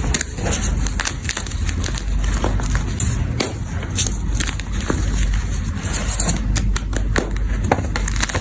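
Gym chalk being crushed and crumbled: a dense, irregular run of crunches and crackles over a low steady rumble.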